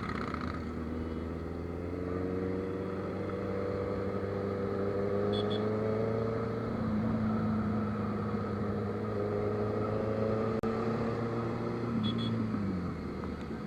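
Motorcycle engine running steadily under way, its pitch creeping up over the first few seconds, then dropping as it slows near the end.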